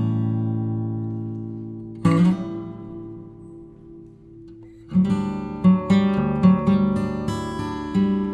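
Background music on acoustic guitar: a strummed chord rings out at the start and another about two seconds in, each fading slowly, then a steady picked pattern of notes begins about five seconds in.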